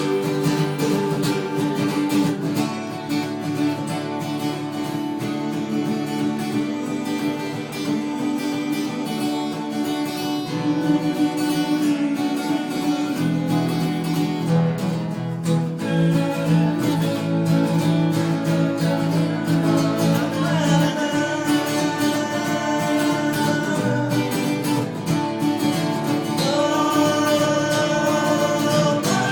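Acoustic guitar music, picked and strummed, with singing.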